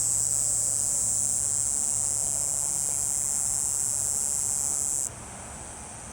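Cicada buzzing: a steady, high-pitched drone that stops abruptly about five seconds in.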